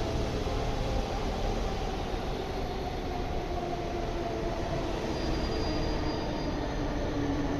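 W7 series Shinkansen train pulling into the platform: a steady rumble with faint tones, one of which drifts slightly lower toward the end as the train slows.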